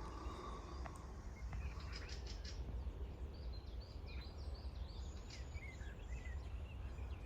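Small birds chirping repeatedly over a steady low rumble, with a few faint clicks about two seconds in.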